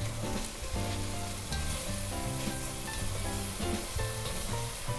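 Onions, celery and bok choy sizzling in butter in a sauté pan, over background music.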